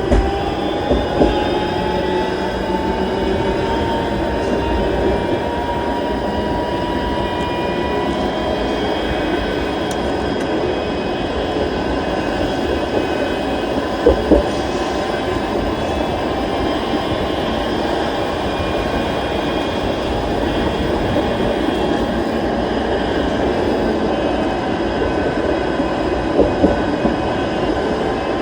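Toronto streetcar running along its tracks: a steady rolling rumble with a whine that rises slowly in pitch over the first several seconds. A couple of short knocks come about halfway through and again near the end.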